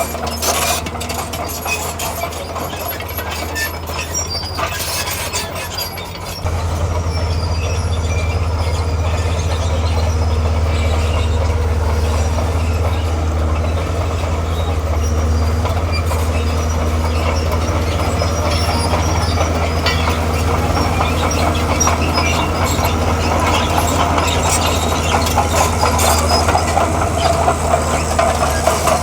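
Diesel engine of a crawler machine running steadily, growing louder about six seconds in and staying up, with clanking and rattling of steel tracks throughout.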